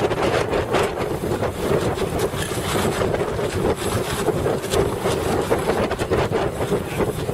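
Heavy wind buffeting the microphone over the rush of water around a boat, with a steady drone underneath.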